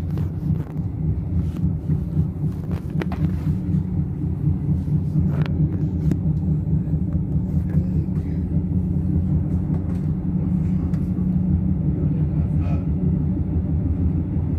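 Passenger train running at speed, heard from inside the carriage: a steady low rumble that grows slightly louder, with a few light clicks.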